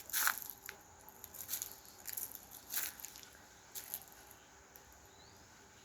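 A string of short, soft crackles and rustles at an uneven pace, the loudest near the start and the rest fainter.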